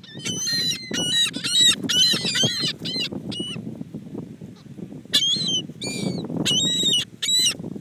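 Several seagulls calling: short calls in quick, overlapping succession, a lull of about two seconds, then another run of calls near the end.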